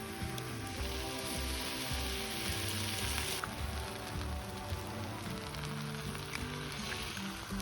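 Food sizzling on the heat, a steady frying hiss that is strongest in the first half and eases about three and a half seconds in, with a few faint crackles. Background music with held notes plays over it.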